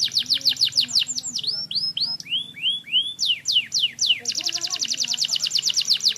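Domestic canary singing. Its song runs from a very fast trill of falling notes into slower downward-sweeping notes. About two seconds in comes a run of rising-and-falling arched notes, then another long, rapid trill from a little after four seconds.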